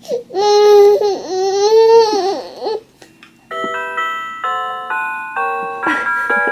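A high, wavering voice for nearly three seconds, then an electronic melody from a baby's car-shaped walker toy, played in chiming notes at about two a second.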